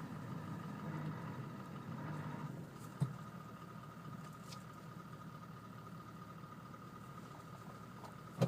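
A four-wheel-drive's engine running low and steady, with a thin steady whine coming in about two and a half seconds in. Two short knocks sound, one about three seconds in and one at the end.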